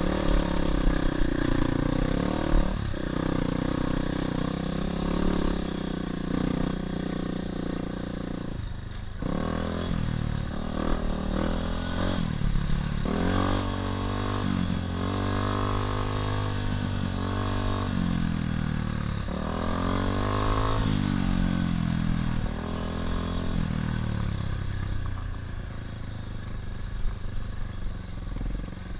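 Dirt bike engine running under a rider. It holds a fairly steady pitch for about eight seconds, then revs up and down repeatedly through the middle of the stretch, with some clatter over the ground.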